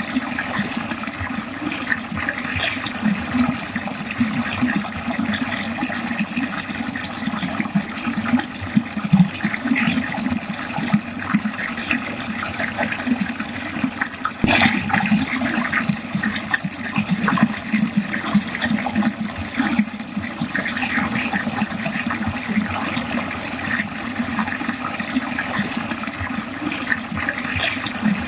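Water flowing steadily down a drain, continuous gurgling and splashing with an even level. One brief click about halfway through.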